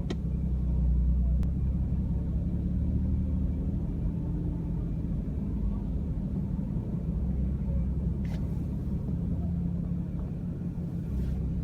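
Steady low engine and road rumble of a car being driven, with a few faint clicks.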